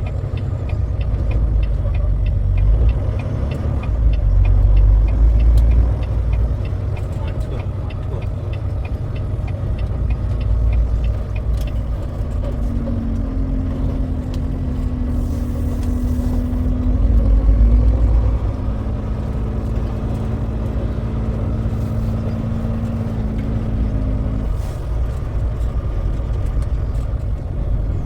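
Semi-truck driving: a steady, heavy low rumble of engine and road noise. About halfway through, a steady droning hum joins in and stops a few seconds before the end.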